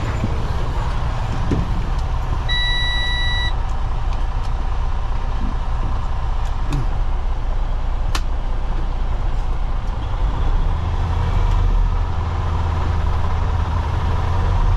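Semi truck's diesel engine running steadily with a low rumble, a little louder from about ten seconds in. A single electronic beep lasting about a second sounds about two and a half seconds in.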